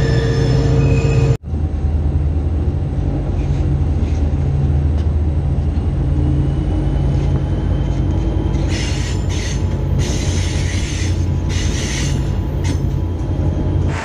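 Onboard sound of a train rolling along the track: the steady low rumble of the diesel locomotive and wheels, with bursts of high-pitched wheel squeal about two-thirds of the way through. The sound cuts out for an instant just after a second in.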